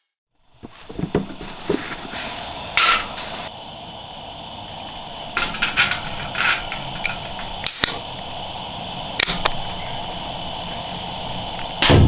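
Outdoor night ambience: a steady high-pitched chirr over a low even hiss, broken by scattered sharp cracks and knocks.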